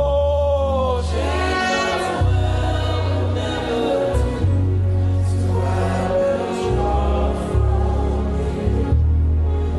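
Gospel worship music: a choir singing sustained notes over a band with a steady bass line.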